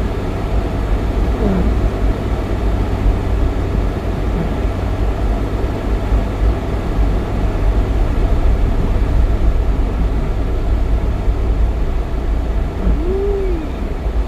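Steady low rumble of a car's engine and tyres, heard from inside the car while it drives. A brief faint tone rises and falls near the end.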